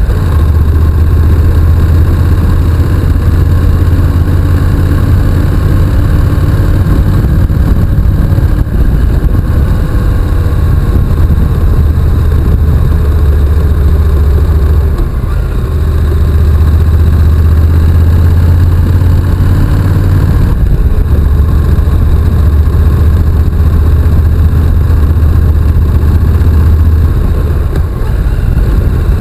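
Honda NC750X motorcycle's parallel-twin engine running while being ridden, loud and steady, with a few brief dips in level.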